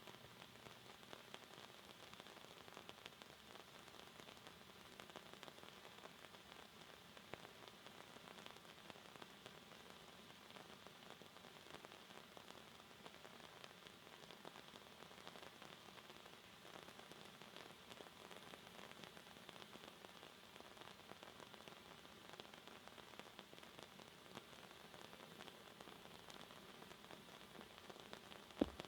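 Faint, steady hissing crackle of a pyrotechnic waterfall (Niagara fall) firework burning, its falling sparks making many tiny clicks. A single sharp click comes near the end.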